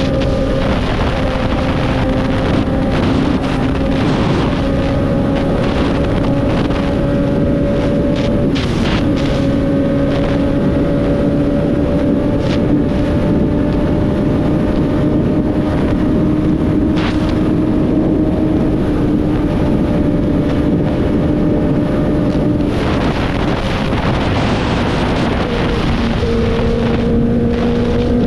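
Motorcycle engine droning steadily while riding, with wind buffeting the microphone. Near the end the engine note drops away, then picks up again, rising in pitch.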